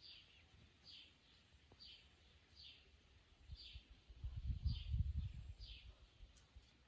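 A small bird repeating a short, high, falling chirp about once a second. A low rumble swells up in the middle and is louder than the bird for a couple of seconds.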